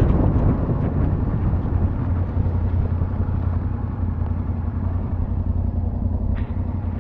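Yamaha Ténéré 700 motorcycle's parallel-twin engine running steadily while riding, with wind noise on the microphone easing off in the first couple of seconds.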